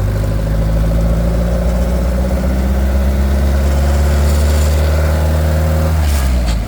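Ford Model A four-cylinder engine with a Riley four-port overhead-valve conversion head pulling steadily under load at an even pitch. About six seconds in the note drops off as the driver shifts, with a brief gear grind going into third in the car's 1939-type three-speed gearbox.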